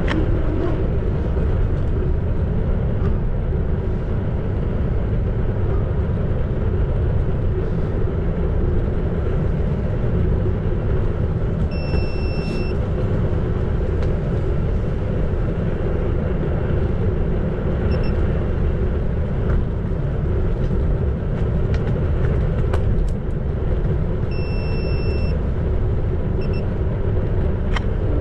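Steady rushing and rumbling of a ride on a Xiaomi Electric Scooter 4 Pro, with wind on the microphone and tyre noise. A high steady beep sounds briefly twice, some twelve seconds apart.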